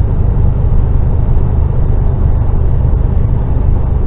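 Loaded HGV truck's diesel engine labouring up a steep hill in twelfth gear, a steady low drone under heavy load as road speed falls away.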